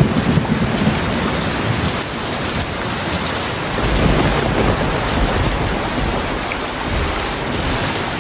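Heavy rain pouring steadily with deep rolling thunder rumbling underneath; the rumble eases a couple of seconds in and swells again about halfway through.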